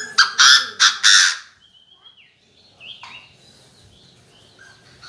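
Chinese francolin calling: a loud burst of four harsh, rasping notes in quick succession at the start. It is followed about two seconds in by a short, falling whistled note and some fainter chirps.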